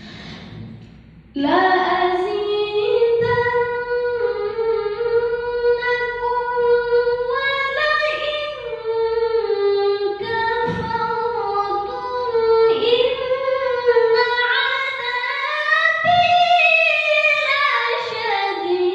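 A young, high voice chanting Quran recitation in the melodic qira'ah (tilawah) style. It enters sharply about a second in and sustains long held notes with melismatic ornaments, climbing higher near the end.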